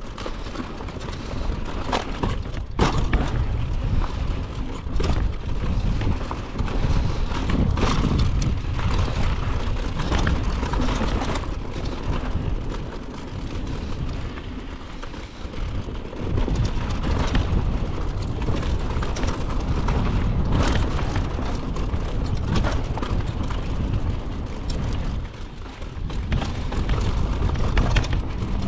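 Mountain bike riding fast down a rough dirt trail: a steady rumbling noise with frequent knocks and rattles as the bike goes over bumps and rocks.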